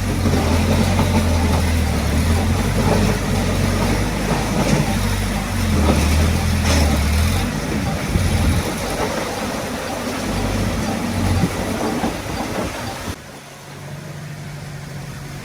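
Heavy diesel engine of earthmoving equipment running: a strong low drone for the first half, becoming uneven, then dropping abruptly to a quieter, steady hum near the end.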